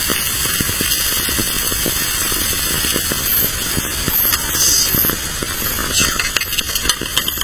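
Food sizzling over a fire: a steady hiss with scattered crackles.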